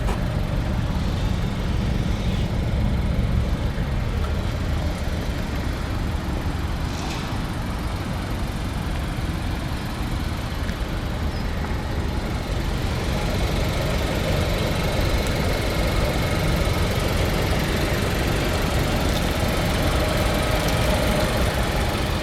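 Volkswagen Golf's 1.4-litre turbocharged inline-four idling, a steady low rumble; about halfway through a faint steady whine comes up over it.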